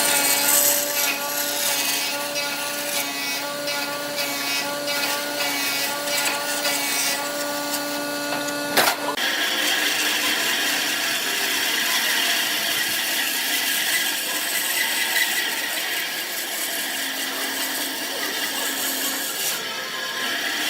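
A wood lathe running with a turning tool cutting into the spinning wood. For the first nine seconds the motor hums steadily under a pulsing tone. There is a sharp click about nine seconds in, and after it the cutting turns to a steadier, hissier scraping.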